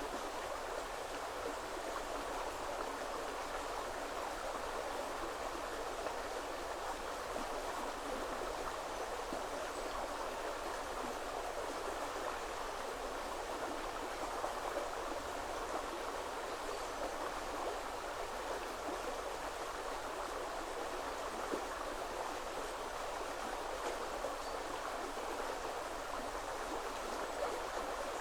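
Woodland river flowing: a steady, even rush of running water.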